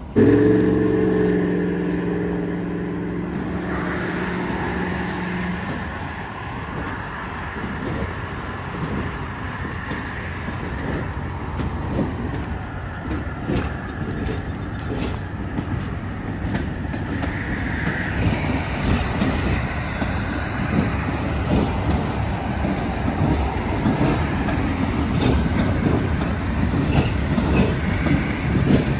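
Diesel locomotives running past close by, with a Norfolk Southern unit leading a string of RJ Corman locomotives: engines rumbling and wheels clicking over rail joints, getting busier toward the end. It opens with a sudden, loud, multi-note horn blast lasting a few seconds.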